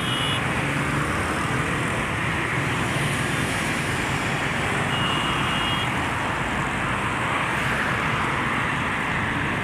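Steady road traffic noise, a continuous wash of passing vehicles, with a brief high tone about five seconds in.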